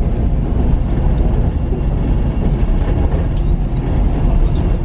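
Steady low rumble from inside a vehicle, with faint scattered rattles and ticks.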